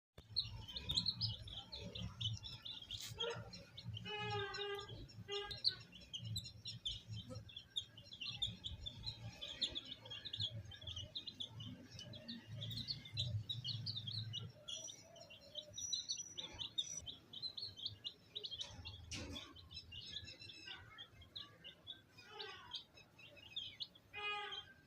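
A group of baby chicks peeping continuously: many short, high chirps overlapping, with a few louder, longer calls among them.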